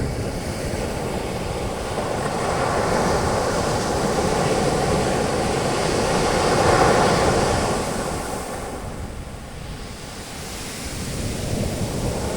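Ocean waves breaking on a beach and their foam washing up the sand, a steady surf wash that swells to a peak about halfway through, eases off, then builds again near the end. Some wind noise on the microphone.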